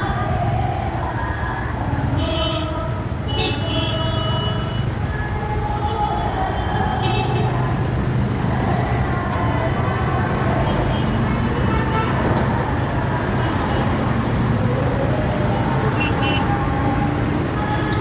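Busy road traffic: engines running steadily, with short horn toots now and then.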